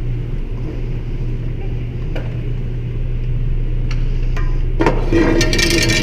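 Steady low hum with a few light clicks, then from about five seconds in a jingling clatter of brass cartridge cases clinking together as they are handled.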